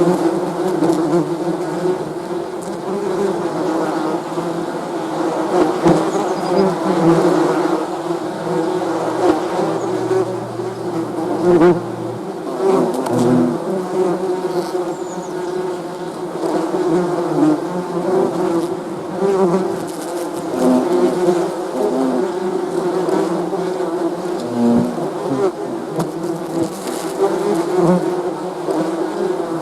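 Many bees buzzing together: a steady, dense hum of overlapping wing tones, with single bees passing closer now and then.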